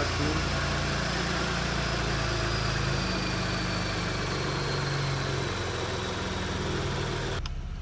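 Porsche Cayenne S 2.9-litre twin-turbo V6 (EA839) idling steadily just after being rebuilt with new rocker arms. The sound turns abruptly duller near the end.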